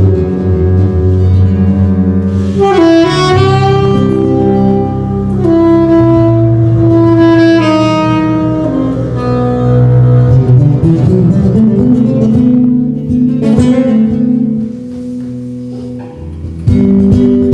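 A small jazz trio playing live: a melody line of long held notes over a bass line and guitar. The playing turns quieter for about two seconds near the end, then comes back in full just before the end.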